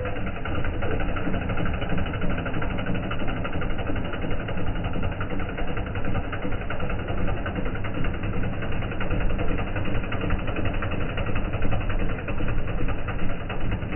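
New Holland tractor's diesel engine running steadily.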